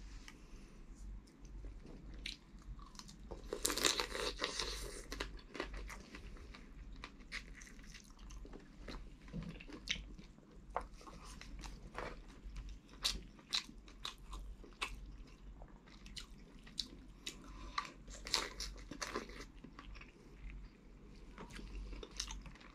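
Chewing and crunching of boiled crab and shrimp close to a clip-on microphone, with many sharp clicks and crackles; a loud burst of crunching about four seconds in.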